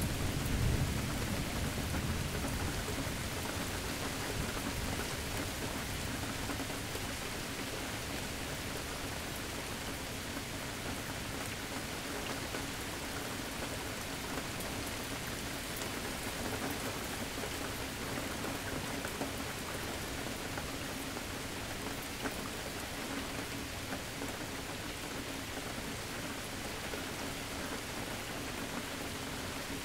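Steady rain pattering on surfaces during a thunderstorm. The tail of a thunder rumble dies away in the first few seconds, leaving an even hiss of rain.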